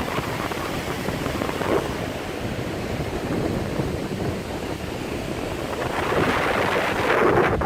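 Surf washing on the beach, a steady rush of noise with wind on the microphone, swelling near the end.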